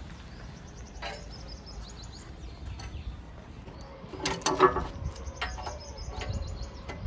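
Birds chirping over a low steady rumble, with a louder call about four seconds in.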